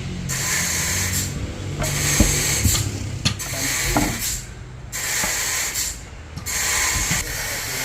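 Sawmill machinery cutting a log: a hissing cutting noise that swells and drops away about every second and a half over a low, steady machine hum, with a few sharp knocks around the middle.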